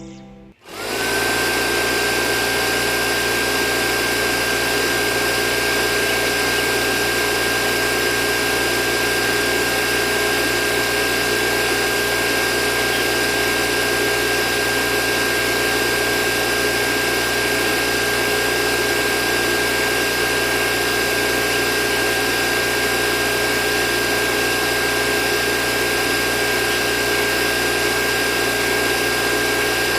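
A small motor starts and runs at a steady speed with a constant high whine over an even mechanical hum. It comes up to speed about a second in.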